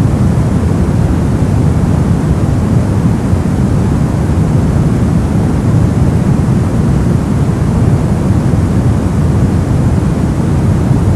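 Brown noise: a steady, loud, deep rumbling hiss with most of its energy in the low end and the highs rolled off, unchanging throughout.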